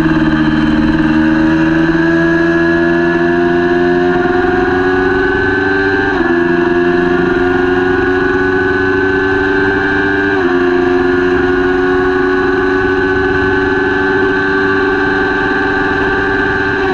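Kawasaki Ninja 400 parallel-twin race engine at high revs under full throttle, pitch climbing slowly and dropping sharply twice at quick upshifts, about six and ten seconds in, then holding a steady high whine.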